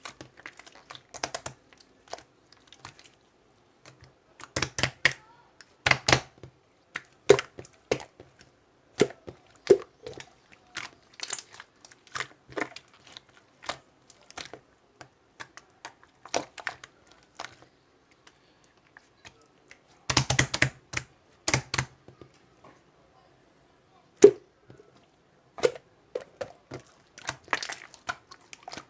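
Slime being played with by hand, kneaded and pressed: irregular sticky clicks and pops, some in quick clusters, with short pauses between.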